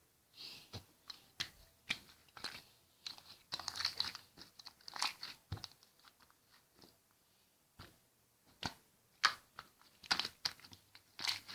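Slime being squeezed and pressed by hand, giving irregular crackling clicks and wet pops.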